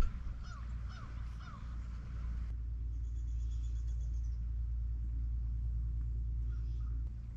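A steady low rumble runs throughout. Over it, about four short falling bird calls come in quick succession in the first two seconds, and fainter high chirping follows a few seconds in.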